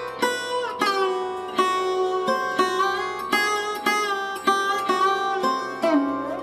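Background music on a sitar-like plucked string instrument: a melody of plucked notes, several a second, some bending in pitch, over a steady drone.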